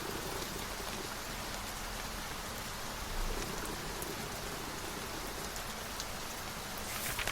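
Steady rain, an even hiss of falling drops, with a short crisp rustle near the end.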